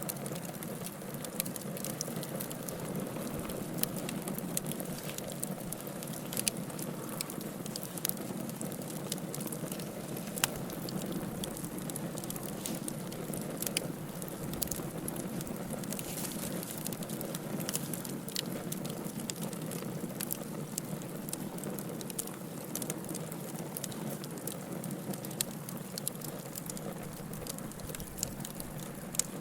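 A fire burning in a fireplace: a steady low rush of flames with scattered sharp crackles and pops, a few of them louder.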